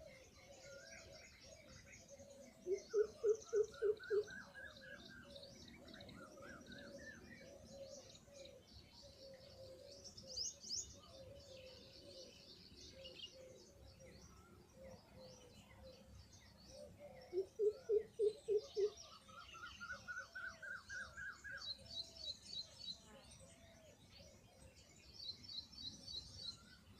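Several birds calling together: steady high chirping and tweeting with a low wavering cooing underneath. Twice, about three seconds in and again past the middle, a bird gives a loud run of about five quick low notes, overlapping a rising series of higher notes.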